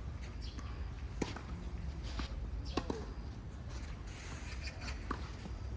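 Tennis ball impacts, a few sharp pops of racket strikes and court bounces spaced a second or more apart, over a steady low background rumble.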